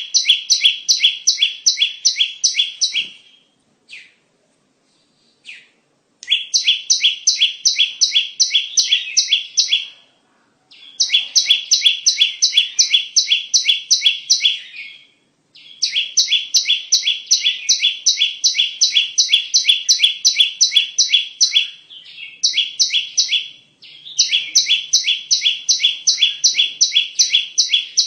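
Bar-winged prinia (ciblek) calling: a fast, even series of sharp, high chipping notes, about six a second, in phrases of a few seconds with brief breaks between them, played as a lure call.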